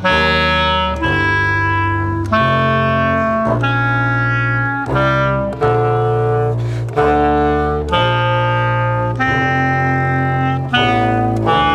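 Clarinet and double bass playing long held notes together as slow chords. A low voice sits under a higher, reedy one, and the notes change roughly once a second.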